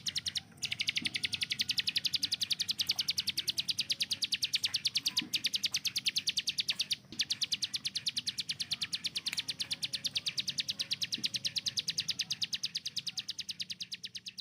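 Ciblek gunung (a mountain prinia) singing a long, very rapid rattling series of sharp high notes, fired off like a machine gun, with two short breaks and fading near the end.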